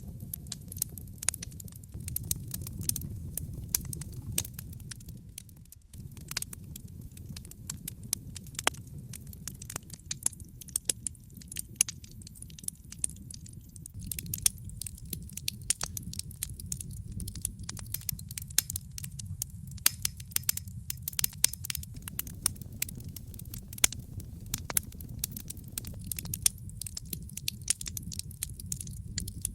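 Wood fire in a fireplace crackling, with frequent sharp pops and snaps over the steady low rumble of the flames. The sound drops away briefly about six seconds in.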